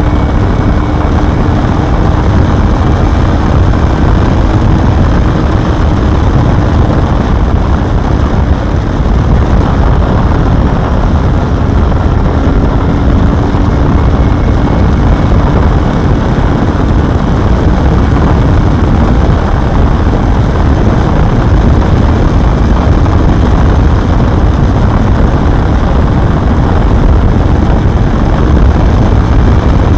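Honda Hornet 250's inline-four engine running at a fairly steady engine speed. A faint steady engine note is buried under a loud, dense rumble, like wind noise on a riding microphone.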